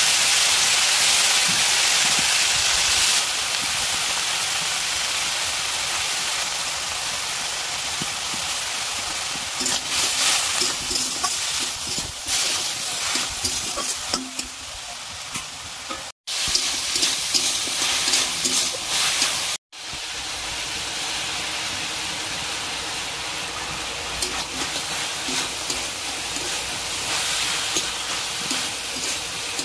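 Sliced vegetables sizzling in hot oil in a metal wok, stirred and scraped with a metal spatula. The sizzle is loudest in the first few seconds, and the sound cuts out briefly twice near the middle.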